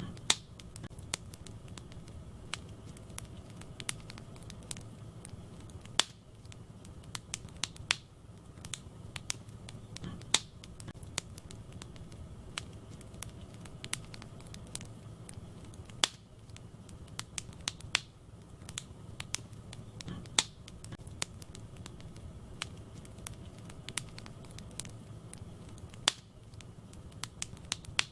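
Wood fire in a fireplace crackling: a steady stream of small irregular crackles, with a louder sharp pop every few seconds, over a low steady rumble of the flames.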